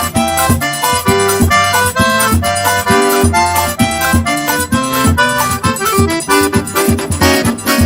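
Accordion playing a quick, jumping melody over a steady bass-drum beat, instrumental forró-style music for a quadrilha junina.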